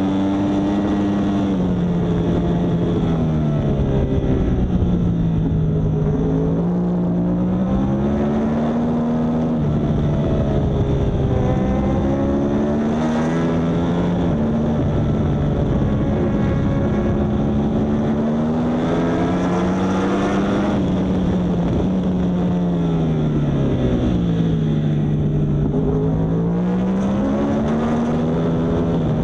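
Yamaha R1 inline-four superbike engine at racing speed, its pitch climbing hard under acceleration and falling away several times as the rider brakes and changes down for corners, then rising again.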